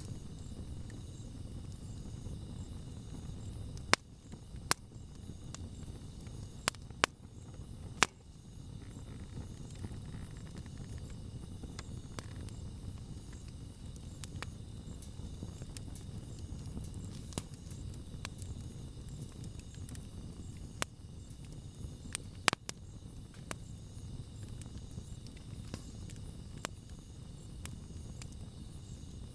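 Wood campfire burning with a low steady rumble and sharp crackles and pops from the wood, several close together about four to eight seconds in and again around twenty-two seconds. Insects chirp steadily in the background.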